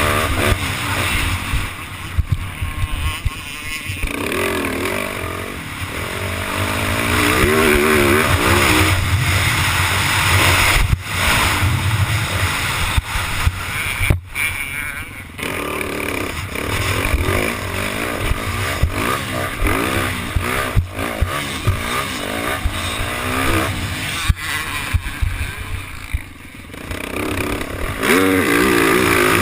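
Yamaha YZ450F motocross bike's single-cylinder four-stroke engine revving up and down through the gears while riding, with wind rushing over the camera microphone. The engine drops off briefly twice, at about the middle and near the end.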